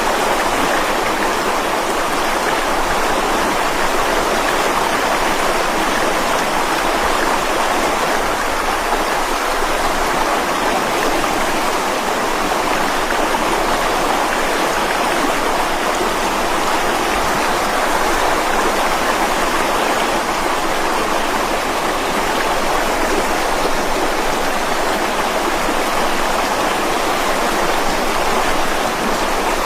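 Mountain stream flowing and splashing over rocks, a steady, even rush of water.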